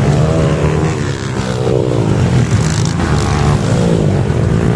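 Motocross dirt bike engines racing, their pitch rising and falling repeatedly as the throttle is worked.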